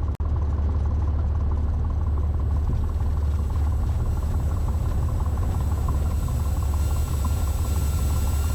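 Cessna 182T's Lycoming IO-540 six-cylinder engine running at low taxi power, a steady low drone heard from inside the cabin, with a momentary dropout just after the start.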